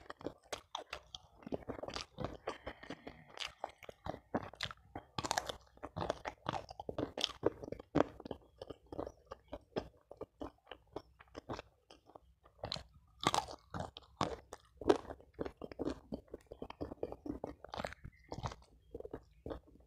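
Close-miked mukbang eating: chewing mouthfuls of spicy chicken neck and rice eaten by hand, with frequent sharp crunches and wet chewing clicks.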